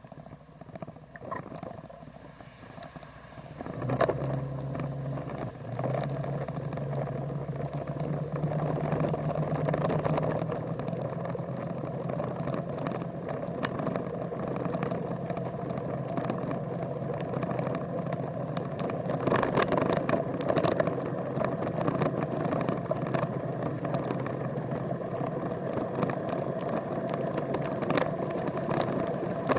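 Vehicle engine running on the move. It gets louder about four seconds in, holds a steady low hum for several seconds, then settles into even running and road noise.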